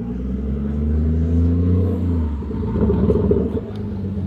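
A car engine running with a deep, steady note that drops in pitch partway through, then swells briefly and more roughly about three seconds in before settling.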